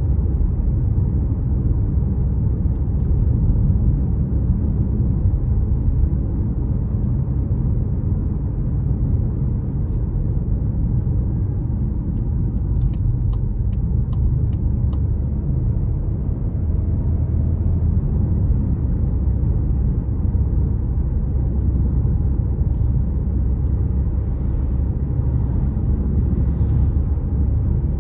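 Car driving along a road: steady low engine and tyre rumble, with a brief run of faint, evenly spaced ticks about halfway through.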